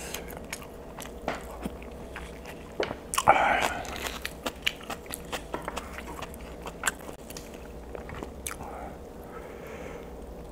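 Close-miked wet chewing, quick mouth clicks and smacks, with one louder, longer sound about three seconds in.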